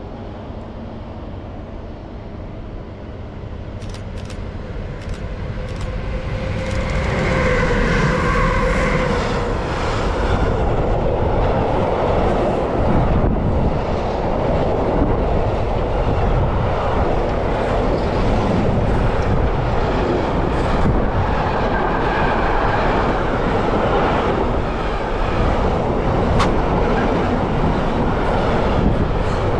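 A train approaching and passing close by: its rumble grows louder over the first several seconds, then runs on steadily, with a brief high whine about eight seconds in.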